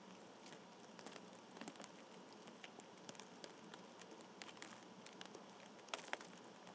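Faint, irregular light clicks and taps over a soft outdoor hiss, with two sharper taps close together about six seconds in.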